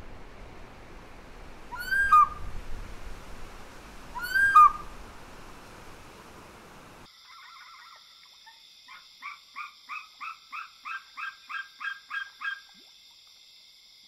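Wild bird calls: a sharp, downward-sweeping call twice. After an abrupt change of soundtrack comes a rapid run of about a dozen short repeated calls, roughly four a second, over a steady high-pitched tone.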